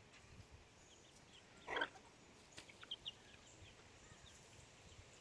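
Faint chicken sounds from the pen: one short, rough cluck just under two seconds in, with scattered faint short chirps around it.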